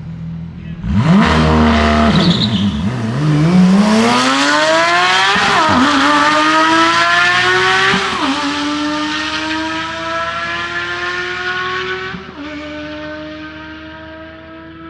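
A manual-transmission car launches hard down a drag strip on what is called a horrible launch. It starts with a sudden loud rush, then the engine revs up through the gears, its pitch dropping at three upshifts, and it fades as the car pulls away.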